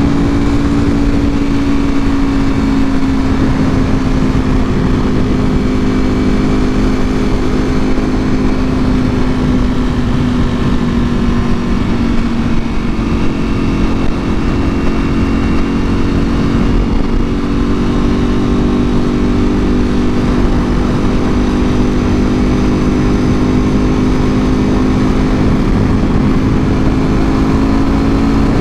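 Ducati Panigale V4R's V4 engine through an Akrapovic full exhaust, running at a fairly steady cruise. The engine note eases down a little toward the middle and then rises gradually again, over a constant low rush.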